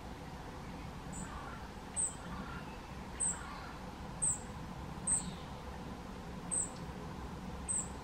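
A small bird giving a thin, very high-pitched call, repeated seven times at roughly one-second intervals, with fainter chirping underneath in the first half.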